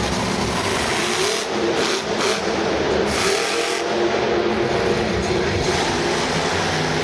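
Monster truck's supercharged V8 engine revving hard, its note rising and falling as the throttle is worked.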